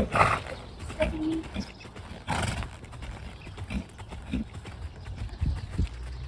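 A horse's hoofbeats on the arena surface, irregular dull thuds as it moves around, with two short breathy bursts of noise, one at the start and one about two and a half seconds in.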